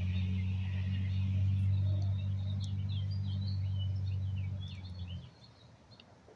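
A truck's engine rumbling steadily, dying away about five seconds in. Small birds chirp over it.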